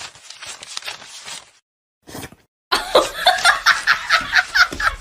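A person laughing hard in quick, rhythmic bursts, starting a little under three seconds in after a short pause.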